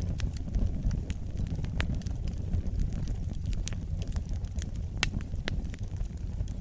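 Wood fire burning in a fireplace: a steady low rumble of the flames with irregular sharp crackles and pops from the logs, a few of them louder.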